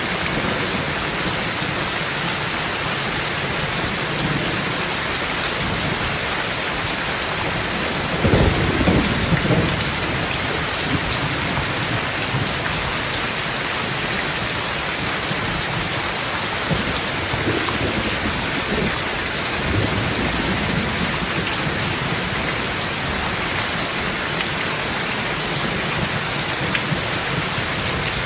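Steady rain, with a rumble of thunder about eight seconds in and fainter low rumbles later.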